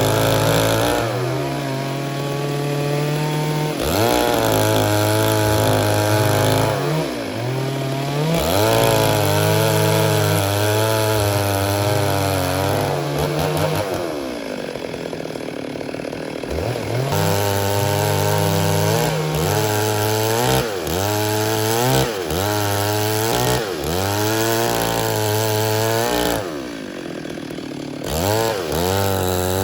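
Two-stroke Stihl MS 382 chainsaw cutting wood at high throttle, its engine note repeatedly dropping under load and rising again. Twice it eases off to a lower, quieter note, around the middle and near the end.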